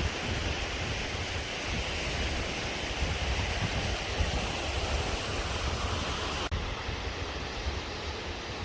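Waterfall: a steady rush of falling water, with a low rumble underneath. About two-thirds through it breaks off for an instant and carries on, slightly duller.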